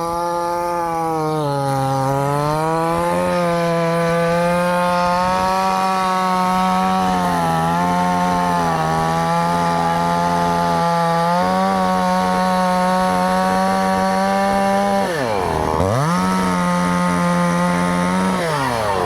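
Chainsaw engine running at high revs, cutting wood, its pitch sagging now and then under load. About fifteen seconds in the revs drop sharply and climb back, and they fall away again near the end.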